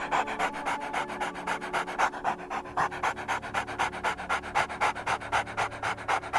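Dog panting rapidly and evenly, about six breaths a second, over background music; the panting cuts off suddenly at the end.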